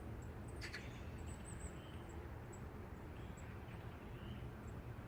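Steady low city rumble of distant traffic, with faint high-pitched bird chirps scattered through it and one brief sharp chirp about a second in.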